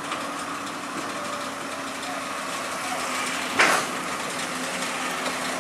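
A heavy diesel engine idles steadily. About three and a half seconds in there is one short, sharp, loud noise.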